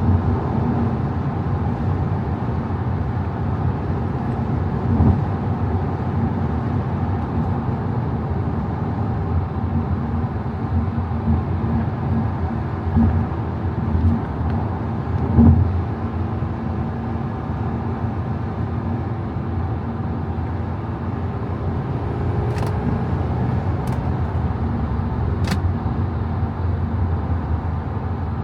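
Audi A5 50 TDI's 3.0 V6 diesel driving on the road: a steady low engine and tyre rumble. A few brief thumps come around the middle, and three faint clicks come near the end.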